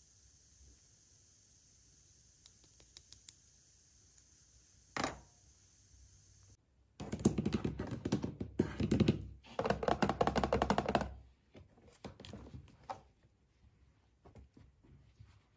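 Hands handling and rustling packaging during an unboxing: a single knock about 5 s in, then a stretch of loud, dense crinkling and clattering for about four seconds, then a few light clicks.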